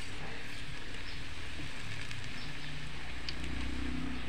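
Banana pieces frying in hot oil in a pan, a steady sizzle, with a faint tap or two of metal tongs near the end.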